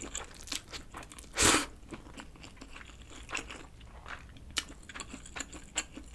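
Close-up chewing of a mouthful of soft stir-fried instant ramen noodles, with many small wet clicks and smacks. One louder wet mouth noise comes about a second and a half in.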